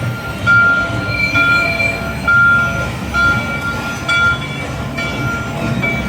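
Cartoon steam-train sound effects from the dark ride's soundtrack: a string of short, high whistle toots repeating over a low rumble.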